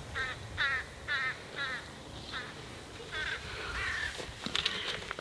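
A bird giving a series of short, harsh calls, about two a second, spacing out and growing fainter after a couple of seconds. A few sharp clicks follow near the end.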